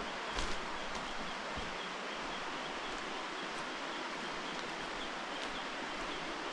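Forest ambience: a steady rushing hiss with no distinct events, with a faint high chirp repeating a couple of times a second and a single light tap about half a second in.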